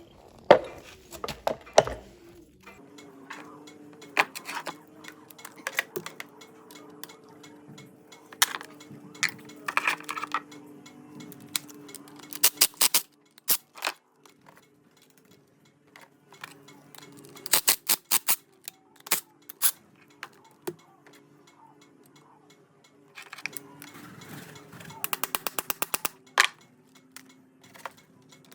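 Hand tools working on metal parts: scattered sharp clicks and knocks, and a quick run of about a dozen clicks near the end, over a steady hum.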